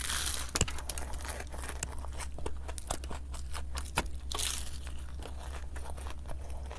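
Close-miked eating: a dense run of small crisp clicks from crunching and chewing, with two short crackly bursts, one at the start and one about four and a half seconds in.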